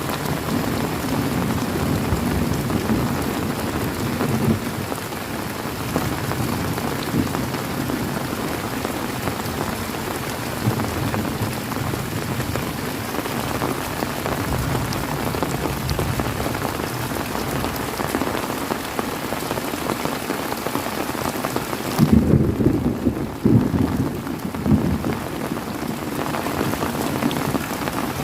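Steady heavy rain falling, an even hiss with the patter of drops. About three-quarters of the way through, low rumbling thunder rolls in for a few seconds.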